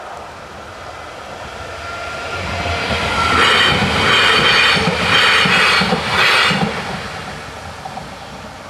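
Roslagsbanan narrow-gauge electric commuter train passing over a level crossing: it grows louder for a couple of seconds, is loudest for about three seconds in three surges as the cars go by, then fades away.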